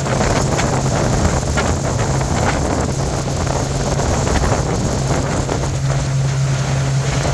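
Motorboat engine running steadily under way, with wind buffeting the microphone and the rush of water from the hull and wake.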